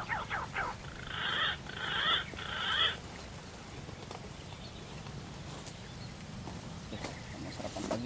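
Bird calls: a run of quick wavering calls, then three harsh calls of about half a second each, followed by a steady outdoor background.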